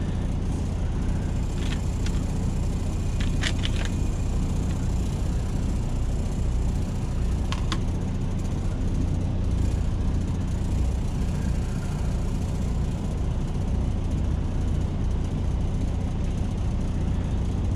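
Semi truck's diesel engine idling with a steady low hum, heard from inside the cab, with a few light clicks.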